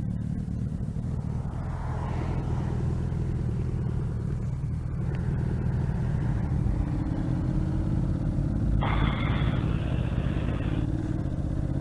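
Motorcycle engine running steadily under way, with a low hum and wind noise that slowly grow louder. A louder hiss comes in about nine seconds in and lasts about two seconds.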